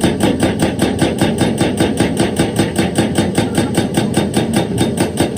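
Excavator-mounted hydraulic rock breaker hammering stone in a fast, even rhythm of about seven blows a second, with the machine's engine running underneath.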